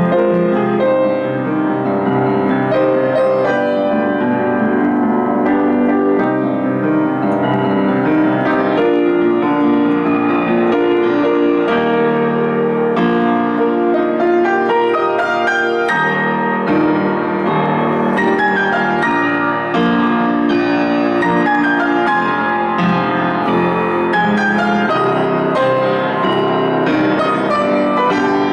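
Solo piano playing a classical-style composition: a continuous flow of chords and running notes at an even loudness, without pause.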